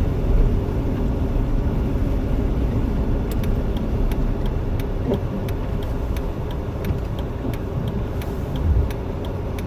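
Steady low rumble of a Jeep Wrangler being driven through deep snow, heard from inside the cab: engine and 33-inch mud-terrain tyres. Faint scattered ticks run throughout.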